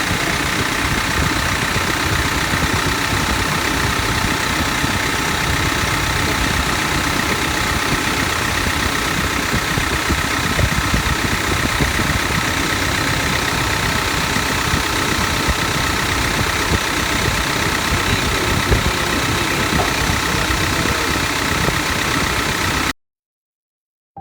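Toyota 1GD-FTV 2.8-litre four-cylinder turbodiesel idling steadily, running again after a fuel filter change and bleeding of the fuel line. The sound cuts off suddenly near the end.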